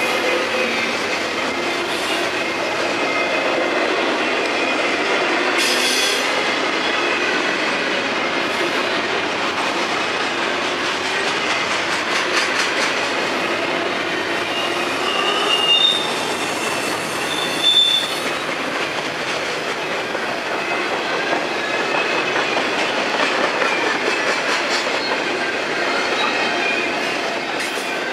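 Freight train cars rolling steadily past with continuous wheel-on-rail noise and clatter, and short high-pitched wheel squeals a little past halfway through.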